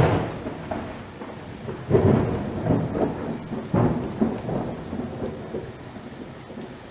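Thunder rumbling over rain, with three loud peals about two seconds apart that each die away, then a steadier fading rumble.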